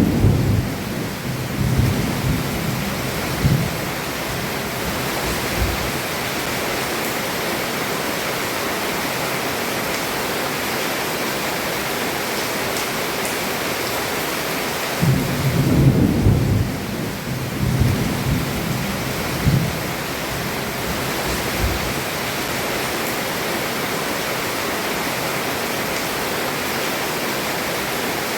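Heavy rain falling steadily under a roof, with thunder rumbling low twice: once at the start and again about halfway through.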